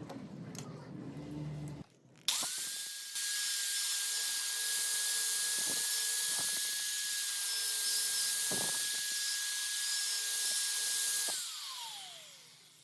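A small high-speed electric power tool switches on about two seconds in and runs at a steady high whine with hiss. It is switched off near the end and winds down in pitch.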